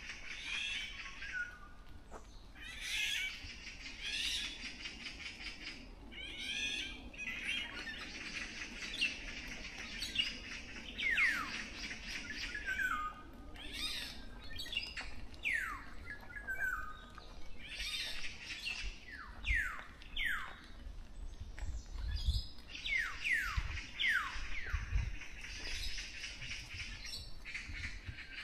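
Birds calling in the treetops: a steady high chorus with many short, clear whistles that slide downward, coming thicker in the second half. A few low thuds sound in the second half.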